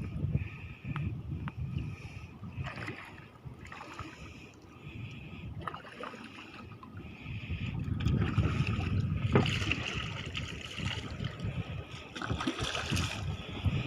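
Water sloshing and splashing against the hull of a small fishing boat at sea, with a low rumble of wind and water that grows louder in the second half. A faint high tone pulses about twice a second through the first half.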